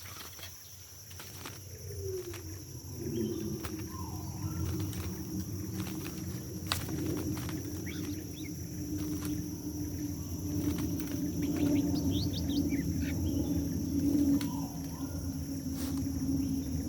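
Tropical forest ambience: a steady high insect drone, a few short bird chirps and calls, and under them a low steady hum that slides down in pitch and settles about two seconds in.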